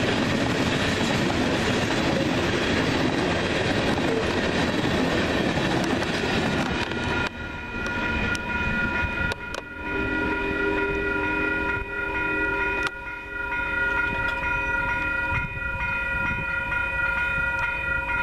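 Loaded grain train's hopper cars rolling through a grade crossing with wheel clatter, the rolling noise dropping away about seven seconds in as the last car passes. A crossing bell then rings steadily, and a distant train horn sounds for several seconds near the middle, with a few sharp clanks.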